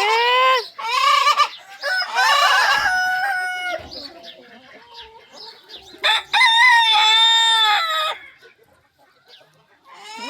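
Rooster crowing: short calls in the first second or two, a longer crow about two seconds in, and a long, held crow about six seconds in lasting some two seconds.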